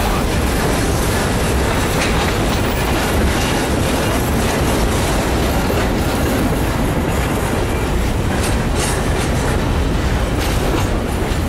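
A freight train rolling steadily past at close range, its cars' wheels running on the rails with a loud, even rumble and some clicks in the later seconds.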